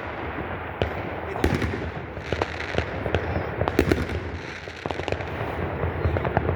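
Fireworks going off: a string of sharp bangs and pops at irregular intervals over a continuous rumble of further explosions.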